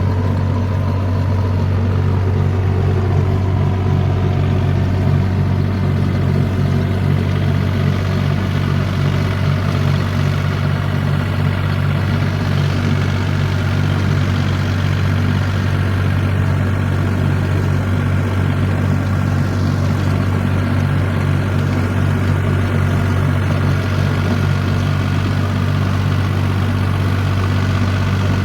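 Mahindra 265 tractor's three-cylinder diesel engine idling steadily.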